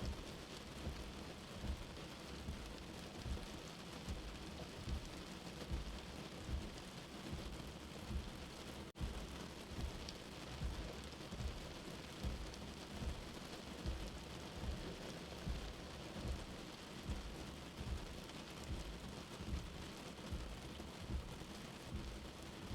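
Steady rain falling on a surface, with a soft, low heartbeat thumping regularly about every 0.8 seconds underneath it.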